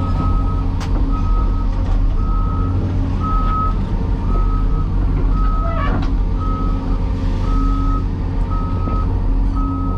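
Backup alarm beeping about once a second over a heavy diesel engine running steadily, with a short metallic clank about six seconds in.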